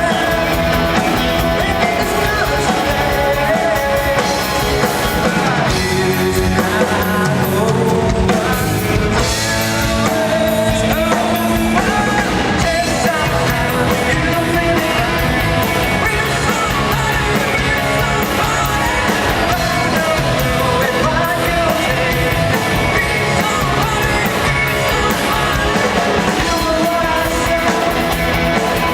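Rock band playing live with a lead vocal over electric guitars, bass and drums.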